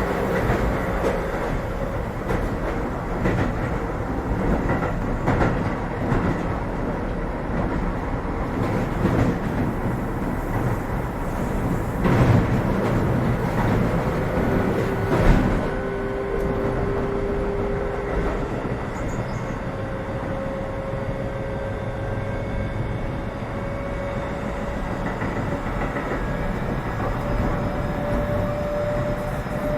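Keio 7000 series electric train running at speed, heard from inside the car: a steady rumble of wheels on rail with scattered clicks over rail joints and a louder knock about halfway through. A thin motor tone climbs slowly through the second half.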